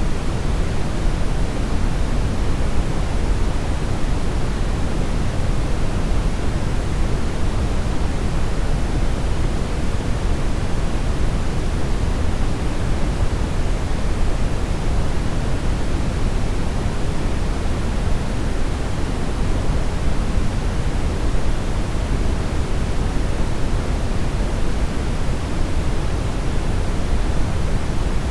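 Steady brown noise: an even, unchanging rush with its weight in the low end, falling off toward the highs.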